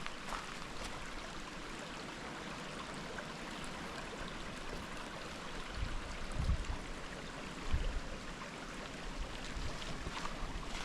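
Forest ambience on a walk: a steady, even hiss, with a few soft low thuds of footsteps on the track a little past the middle.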